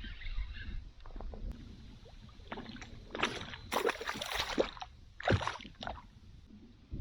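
Water splashing in several short bursts from about two and a half to six seconds in, as a hooked peacock bass thrashes at the surface while being landed, over a steady low rumble.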